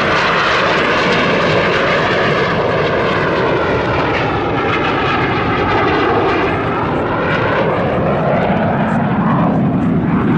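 Jet noise from two BAE Hawk T1 jets, each with a single Adour turbofan, as the Red Arrows' Synchro Pair make a low opposition pass. The sound is a loud, continuous roar whose tone sweeps up and down as the aircraft pass.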